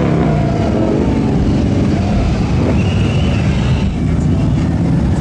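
Loud, steady low rumble of motor vehicle engines running.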